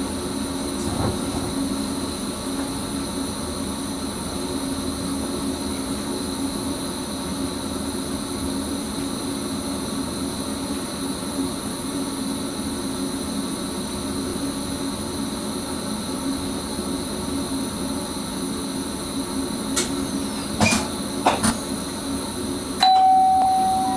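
Electric Sprinter train running, heard from the driver's cab: a steady hum from the traction motors and rolling wheels. A few sharp clicks come near the end, followed by a single steady beep lasting about a second.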